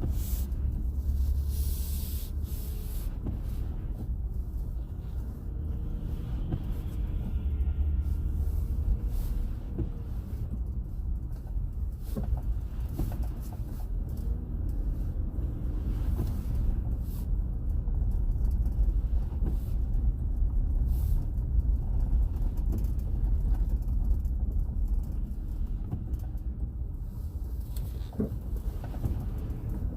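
Steady low rumble of a motor vehicle driving, with faint engine tones and an occasional click or knock.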